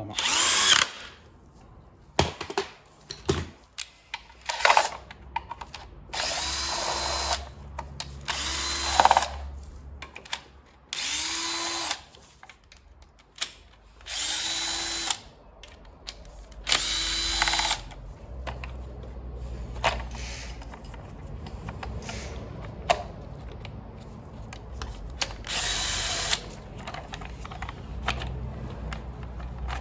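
Cordless drill-driver run in about ten short bursts, most about a second long, with a steady motor whine, spinning bolts in or out on an engine during a timing belt job. Small clicks and knocks of tools sound between the bursts.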